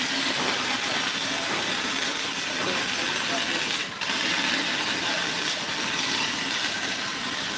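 MIG welding arc crackling steadily as a bead is run, with a brief break about four seconds in.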